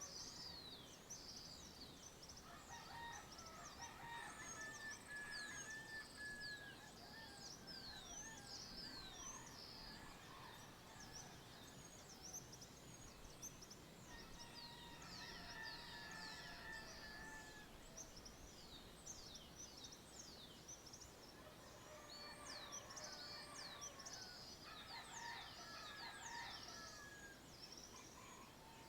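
Dawn chorus: many birds chirping and singing over each other, with quick high descending chirps throughout and bursts of fuller song now and again, all faint.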